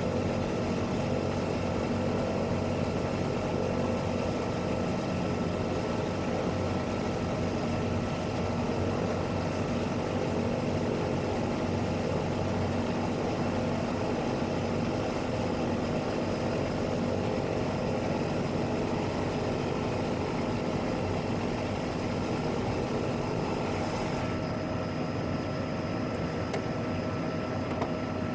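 Single Pratt & Whitney PT6A turboprop engine of a PAC 750XL running steadily at ground idle, a constant drone with a steady whine and propeller hum. The highest hiss thins slightly about 24 seconds in.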